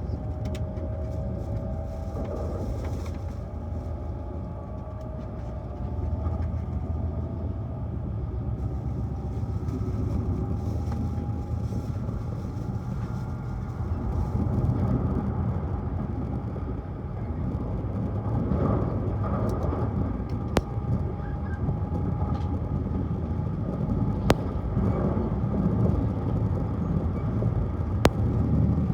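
Tohoku Shinkansen high-speed train running at speed, heard as a steady low rumble with a faint whine that slides in pitch over the first few seconds. A few sharp clicks come in the second half.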